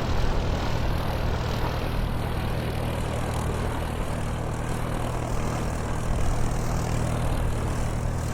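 Aircraft engine noise: a steady, unchanging drone with a low hum underneath.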